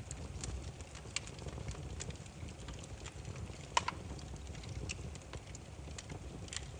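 Wood fire crackling: a steady low rumble of burning logs with scattered sharp pops and snaps, the loudest about four seconds in.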